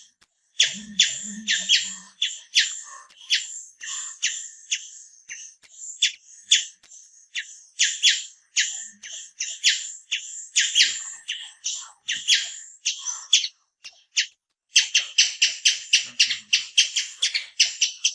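An animal giving a long series of short, high-pitched squeaky chirps, two or three a second, breaking off briefly about fourteen seconds in and then coming faster.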